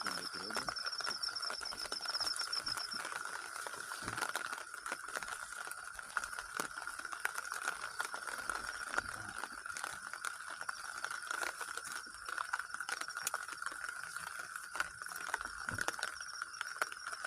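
Rain drops pattering and dripping, over a steady chorus of calling insects and frogs; a high pulsing trill stops about three seconds in.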